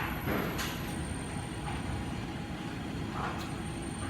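Washing machine running, a steady low rumble with a few faint brief knocks or swishes over it.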